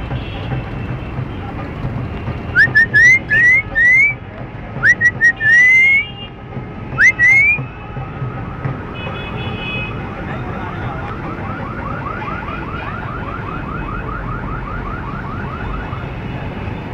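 Parrot whistling: loud rising whistles in short runs of three or four, then a fast series of rising chirps, about five a second, like a car alarm.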